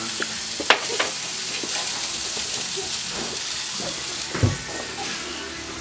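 Food frying at high heat on a barbecue, a steady sizzle that grows a little fainter toward the end. A sharp click comes a little under a second in and a dull knock just after four seconds.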